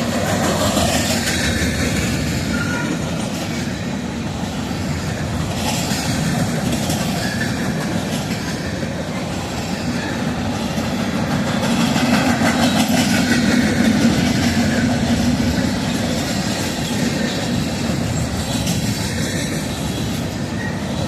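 Freight train passing close by at speed: the steady rumble and rhythmic clatter of wheels on the rail joints, swelling slightly about midway through.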